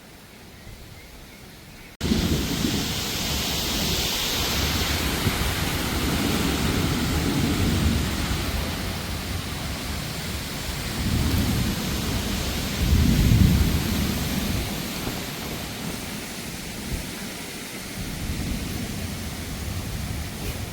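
Heavy rain with rolling thunder, cutting in abruptly after about two seconds of faint hiss; the low rumbling swells louder twice past the middle.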